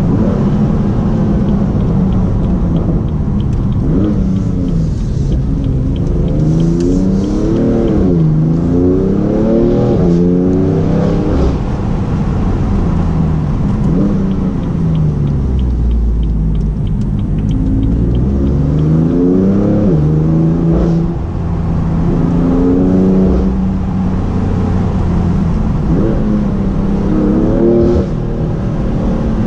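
BMW M3 F80's twin-turbo straight-six with an M Performance exhaust, heard from the driver's seat, accelerating in several runs: the pitch climbs through each gear and drops back at every upshift. In between, it eases off and the pitch falls.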